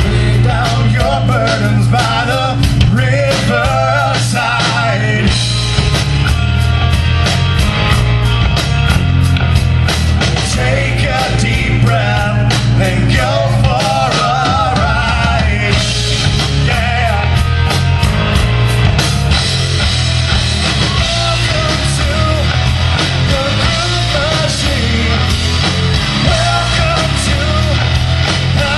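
Rock band playing an instrumental passage: drums, bass and distorted electric guitar, with a lead line that wavers in pitch over them.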